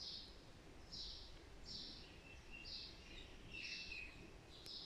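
Faint bird chirping: a short high chirp about once a second, with a few thinner whistled notes in the middle, over low background hiss.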